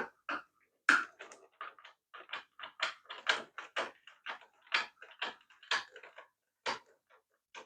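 Irregular small clicks and knocks of hard plastic toy car parts being handled and put down, two or three a second, the loudest about a second in.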